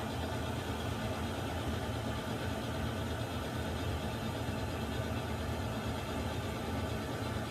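Water heater running: a steady low rumble with an even hiss above it, unchanging throughout.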